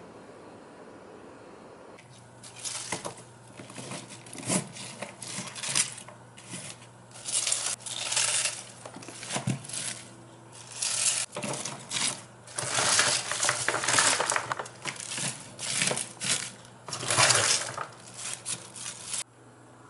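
Irregular crisp rustling, crunching and clattering as fresh cabbage is handled for drying, with a faint steady low hum underneath. Both stop abruptly near the end.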